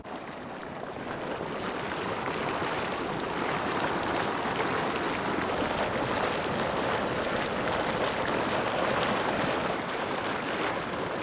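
Steady rushing hiss of a volcanic hydrothermal vent letting off steam, at a sulfur-smelling geothermal area.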